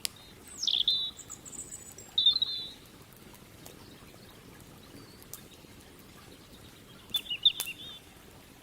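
Wild birds calling in three short bouts: a whistle that falls sharply in pitch followed by a brief high trill, a short chirp a second later, and a quick burst of chirps near the end.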